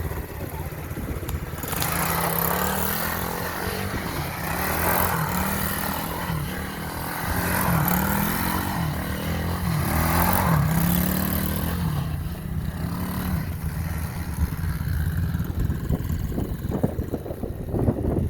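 SSR 110 pit bike's small four-stroke single-cylinder engine being ridden, its pitch rising and falling again and again as the throttle is worked. About twelve seconds in it drops lower and steadier.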